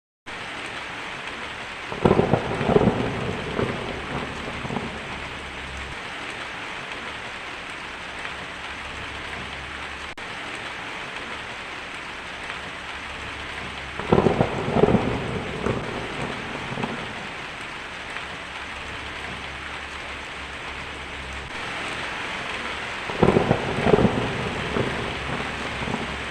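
Steady heavy rain hissing, with three crackling claps of thunder rumbling out over two or three seconds each: one about two seconds in, one halfway through and one near the end.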